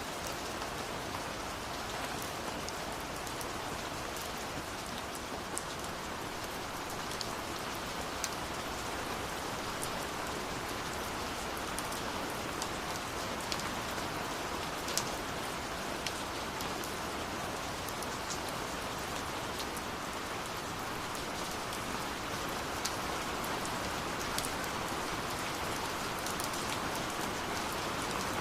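Ambience soundtrack of a waterfall's steady rushing water mixed with a crackling wood fire, which gives occasional sharp pops at irregular moments.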